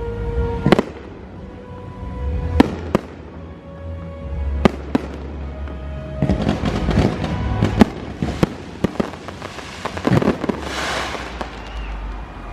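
Aerial fireworks bursting with sharp bangs every second or two, then a run of rapid crackling bursts in the second half, over show music.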